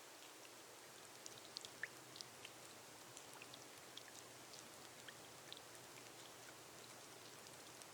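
Faint steady rain on a glass roof: an even hiss with scattered individual drops ticking sharply and irregularly, several a second.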